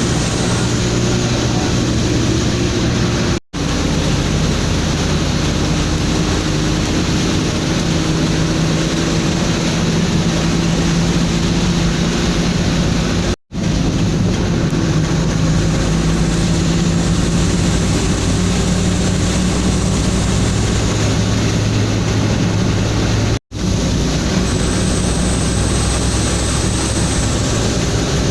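Truck engine running under way with steady road noise, heard from inside the cab; the engine note drifts up and down slowly. The sound cuts out completely for a split second three times, about ten seconds apart.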